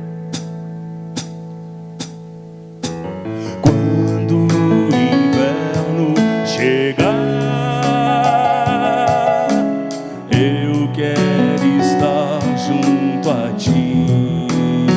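Live band music: a held chord fades under four evenly spaced clicks, then the band comes in about three seconds in with keyboard and a wavering lead line over the rhythm.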